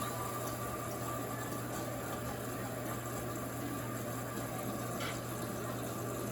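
Electrolux LAC16 top-load washing machine filling with water: the inlet valve hums steadily while water rushes in through the Jet Clean dispenser into the tub.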